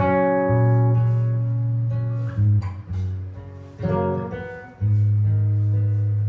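Solo jazz guitar improvising: full chords are struck and left to ring over a deep bass note. A new chord comes at the start and again at about four and five seconds.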